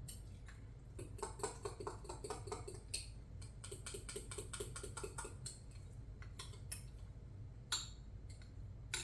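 A spoon stirring thick muffin batter in a small dish, clinking against the sides in a quick run of light taps, about four a second, for a few seconds; a couple of separate sharper knocks follow near the end.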